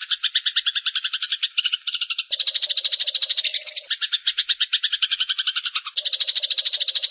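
Eurasian tree sparrows chattering in a rapid, unbroken run of chirps, about ten a second: the excited chatter of sparrows fighting. The mix of calls changes abruptly a few times, like spliced recordings.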